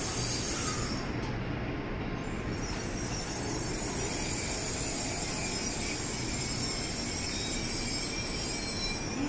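N700A Shinkansen train rolling slowly into the platform and coming to a stop: a steady rolling noise with a thin high whine.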